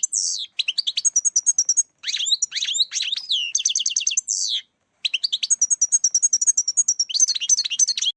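European goldfinch singing: fast, high twittering and tinkling notes in phrases broken by a few short pauses, stopping abruptly at the end.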